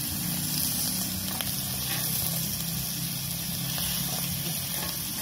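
Pork chops sizzling on a cast iron griddle over a campfire, a steady hiss, with a low hum underneath that fades out about four seconds in.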